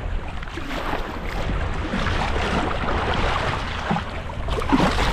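Wind buffeting the microphone over waves washing and splashing on choppy water.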